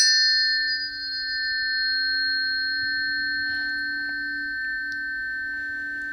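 Planetary tuning forks for Mars and Juno, struck just as it begins and then ringing on together. A clear pair of high tones sounds over a lower hum, holding nearly steady.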